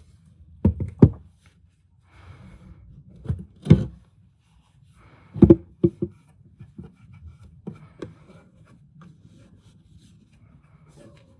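Handling noises during hands-on car repair work: about eight knocks and thuds, some in quick pairs, with rubbing and scraping in between.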